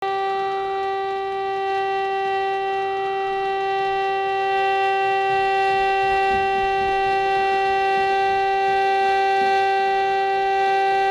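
A single steady horn-like tone held at one unchanging pitch, rich in overtones.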